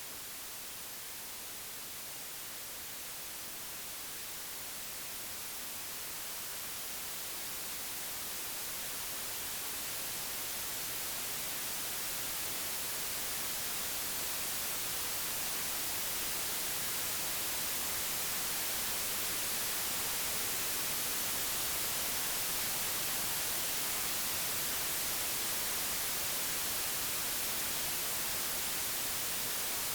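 Computer-generated white noise: a steady, even hiss with no tones or events, slowly growing louder over the first half and then holding level.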